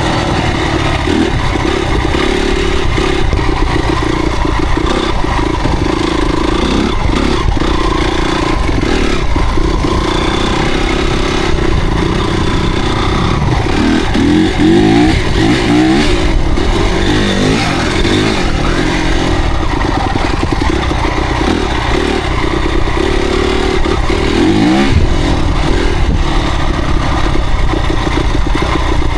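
Motocross motorcycle engines running hard and revving, their pitch rising and falling again and again.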